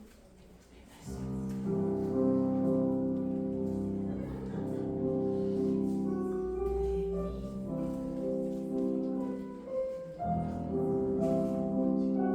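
Classical piano music for ballet class exercises starts about a second in after a brief quiet moment, with a short break in the music near the end.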